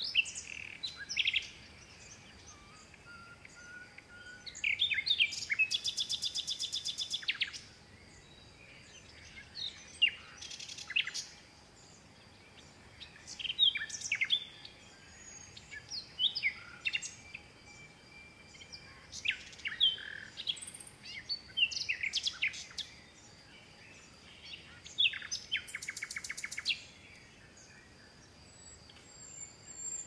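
Several wild birds calling: short chirps and whistles scattered throughout, with a fast trill of rapidly repeated notes lasting about two seconds, once about five seconds in and again near the end.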